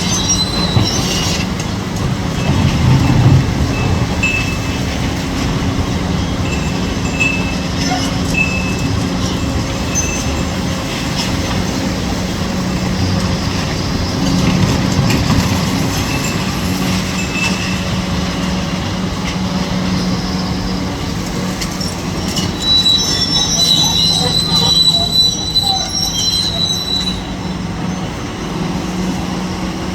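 Kobelco SK 850 excavator working on demolition: its diesel engine drones steadily, with high metallic squeals over it. The loudest is a thin high screech from about 23 to 27 seconds in.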